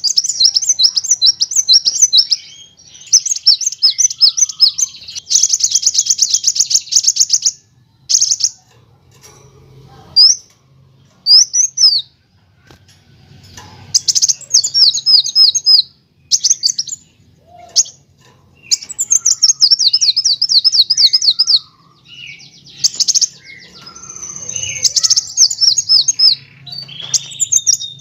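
Kolibri wulung sunbird singing: loud phrases of rapid, high chirps and fast rolling trills, separated by short pauses, over a faint low hum.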